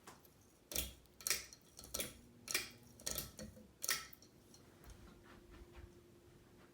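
A run of about seven sharp clicks, unevenly spaced over three seconds, some with a slight ring, over a faint steady hum.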